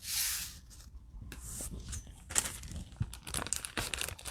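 Foil wrapper of a trading card pack being torn open and crinkled, a short tearing rasp at the start followed by scattered crackling.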